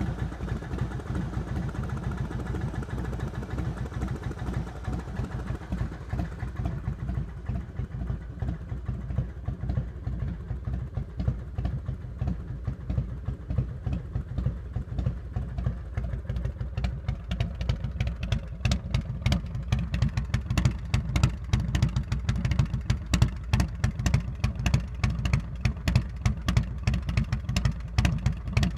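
Harley-Davidson Heritage Softail Classic's 95-cubic-inch Screamin' Eagle V-twin idling through a Vance & Hines exhaust, a steady run of low exhaust pulses. From a little past halfway the pulses come through sharper and louder.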